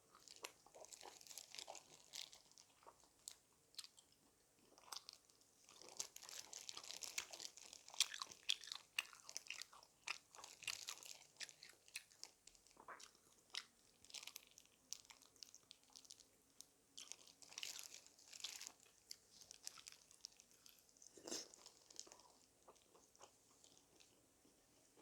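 Close-miked crunching and chewing of crispy-coated fried chicken, in irregular bursts of sharp crackles.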